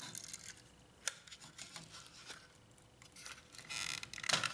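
Light plastic clicks and rattles as the laser scanner unit of an HP LaserJet P1102 is handled and lifted out. A short scraping rustle comes about three and a half seconds in, and a sharper knock follows just after.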